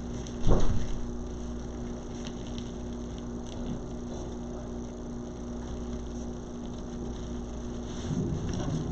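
Steady low electrical hum with a held tone, and one short thump about half a second in.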